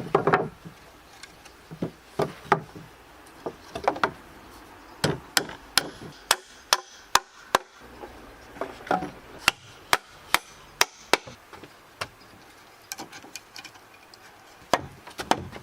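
A hand tool striking wood in a long run of sharp, uneven knocks, some coming in quick runs of two or three.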